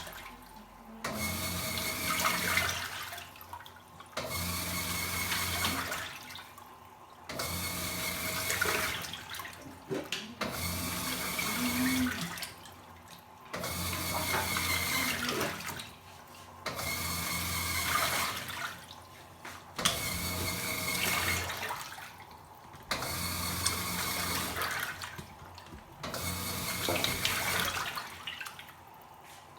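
Top-loading washing machine agitating a load in water: water sloshing with the motor hum, in strokes of about two seconds broken by short pauses, repeating about every three seconds.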